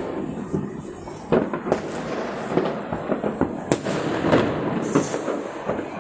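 Fireworks going off in quick succession: a dense crackle of pops and bangs with several sharper, louder reports.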